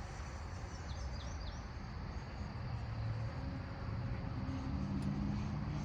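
Xfly T-7A Red Hawk RC jet's electric ducted fan heard faintly in flight under a low, steady rumble of wind on the microphone, its tone growing a little stronger about halfway through. A few short high chirps about a second in.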